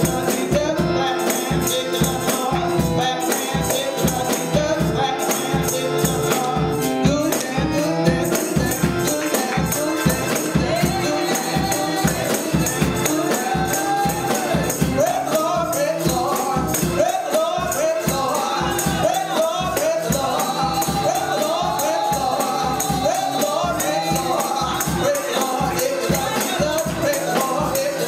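Gospel praise music: voices singing together over a steady, quick beat with tambourine.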